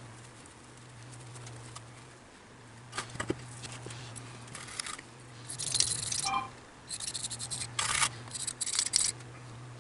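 Hands working on small metal motor parts at a workbench: scattered clicks and scraping rasps that come in clusters, loudest about halfway through and again near the end, over a faint steady low hum.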